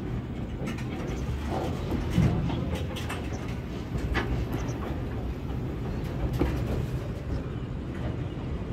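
Freight train of container flat wagons rolling past close by: a steady rumble of steel wheels on the rails with scattered clanks and clicks.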